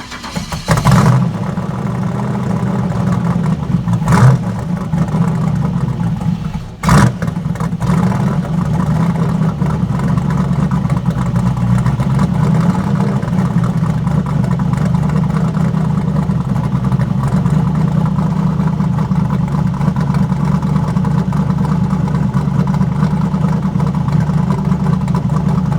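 Cold-started LQ4 6.0 V8 with a Texas Speed Tsunami camshaft, blipped three times in the first seven seconds or so, then settling into a steady, choppy cam idle.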